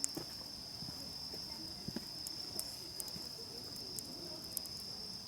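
A wood campfire crackling with scattered sharp pops, over a steady high-pitched insect trill.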